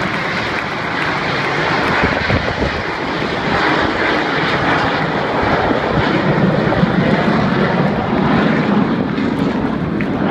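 Jet aircraft of an aerobatic display team, Aermacchi MB-339 trainers, flying past with a loud, steady jet engine noise.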